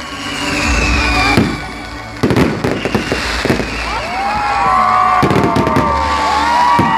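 Fireworks going off: sharp bangs throughout, and from about four seconds in a burst of whistling fireworks, many overlapping whistles sliding up and down in pitch.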